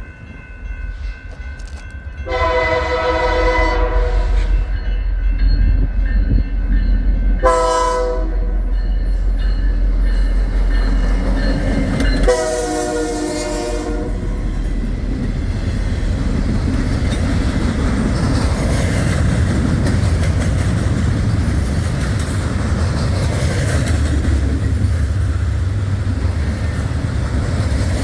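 BNSF freight train's diesel locomotive sounding its multi-tone horn three times (long, short, long) over a heavy low engine rumble, then the train rolling past with steady wheel and rail noise.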